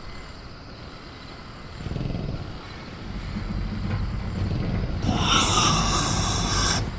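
Sound-designed velociraptor growling low and rumbling. About five seconds in, a louder raspy hiss joins the growl and then cuts off sharply.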